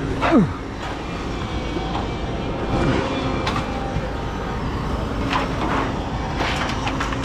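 Engine running steadily with a low rumble. A short falling squeal comes just after the start, and a few sharp metallic knocks follow near the end.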